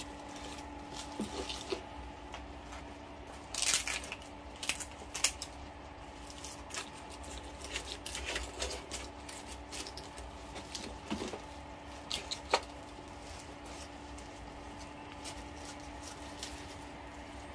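Close-up chewing of crunchy deep-fried pork (lechon kawali): irregular crackling crunches and wet mouth sounds, some louder bites in the middle. A steady low hum runs underneath.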